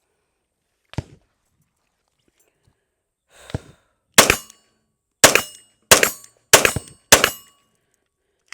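Five shots from a Magnum Research Baby Eagle 9mm pistol, fired at a steady pace under a second apart, after a single click and a short rustle of handling.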